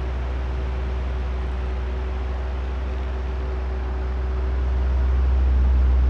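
Oscillating electric fan running: a strong low motor hum with a few faint steady tones over an even rush of air, swelling louder over the last two seconds as the head turns toward the listener.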